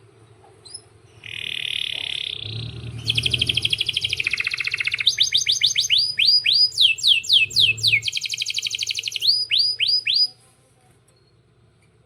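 Male domestic canary singing a long song of rapid trills and runs of repeated whistled notes that sweep downward, starting about a second in and stopping abruptly near the end.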